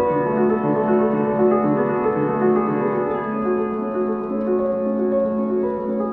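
Slow piano music with sustained, overlapping notes over a steady held low note.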